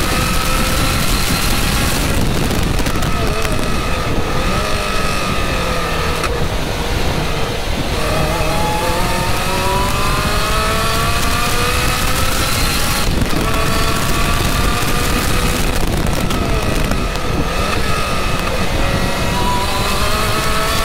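Lotus 2-Eleven's Toyota 1.8-litre four-cylinder engine heard from the open cockpit at speed. It repeatedly climbs in pitch under acceleration and breaks off abruptly several times, under constant wind rush.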